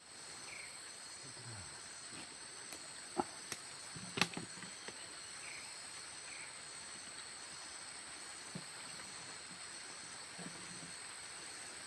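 Steady high-pitched chorus of insects, with a few sharp clicks about three to four seconds in.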